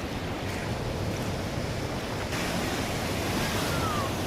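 Ocean surf washing, with wind on the microphone; the hiss grows brighter about halfway through, and a faint falling whistle sounds near the end.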